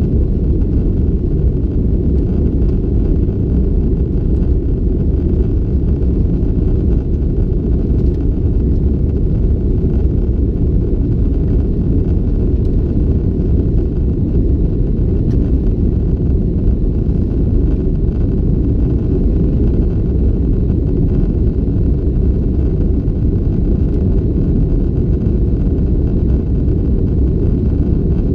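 Steady, muffled low rumble of an Airbus A330-200 passenger cabin in flight, the engine and airflow noise of the climb heard from inside the aircraft.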